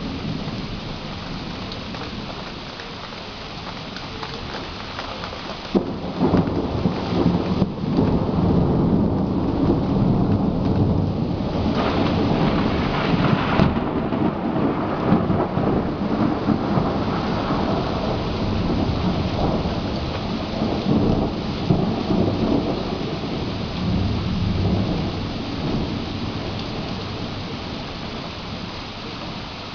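Thunderstorm: steady heavy rain, with a sudden thunderclap about six seconds in, several more cracks over the next eight seconds, then long rolling thunder that slowly fades.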